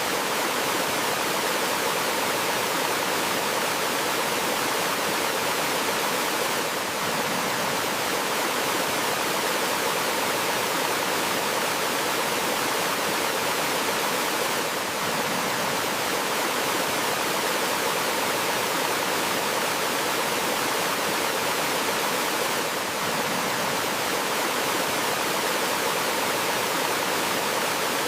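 Gentle flowing water of a forest stream and small waterfall: a steady, even rush.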